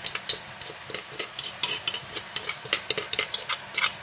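Beef liver and chicken hearts frying in a wok with a soft sizzle, under irregular sharp clicks and scrapes of a utensil against the cookware, about three or four a second.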